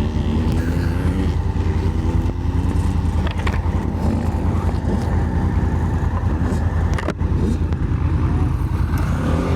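Honda Africa Twin's parallel-twin engine running as it is ridden on a dirt track, its pitch rising and falling with the throttle. There is a sharp knock about seven seconds in.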